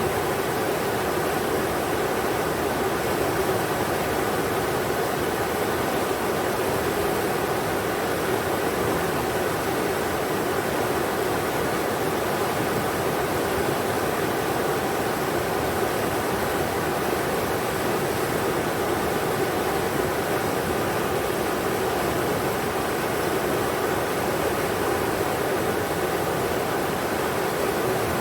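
A river's water rushing: a steady, even rush of flowing water that does not change.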